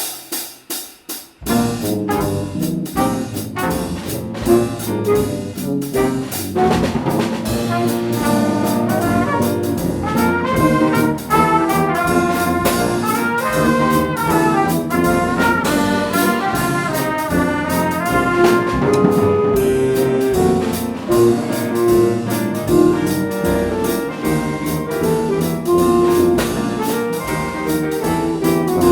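School jazz ensemble playing: trumpets and trombones over a drum kit. A few sharp accented hits open it, and the full band comes in about a second and a half in.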